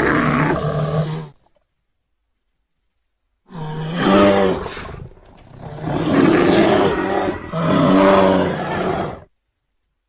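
Film sound effects of a bear roaring. A deep, rough roar trails off about a second in. After a pause, three long roars follow close together.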